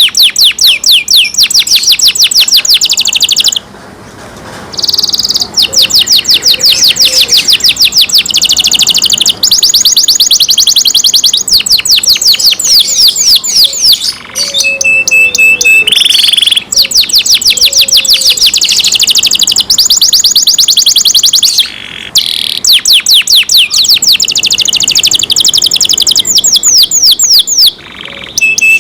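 Domestic canary singing close up, loud: long runs of fast trills made of quickly repeated sweeping notes, broken by a few brief pauses and short steady whistled notes.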